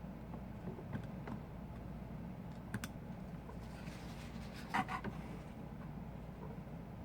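Scattered light clicks and taps of small repair tools and parts, with a louder quick cluster of clicks about five seconds in, over a steady low hum.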